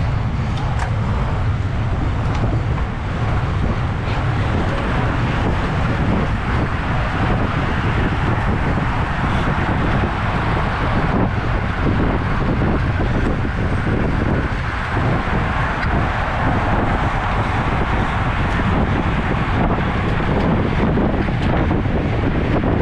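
Steady wind rumble on the microphone of a camera riding along on a moving road bicycle, heaviest in the low end.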